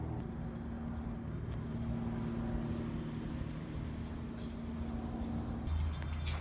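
A car running on the road: a steady engine hum with road rumble, the low rumble growing louder near the end.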